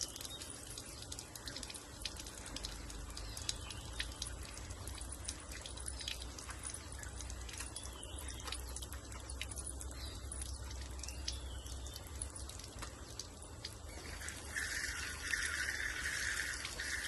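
Quiet background with scattered small clicks and drips; about fourteen seconds in, a steady hiss of water running from a tap begins.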